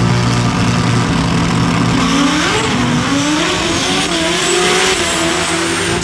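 Turbocharged Pro Street drag motorcycle engine holding a steady note, then launching about two seconds in, its pitch climbing in steps through the gears as it accelerates.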